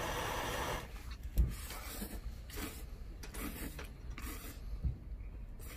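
A person slurping hot ramen noodles from a pot: one longer slurp at first, then a string of short slurps.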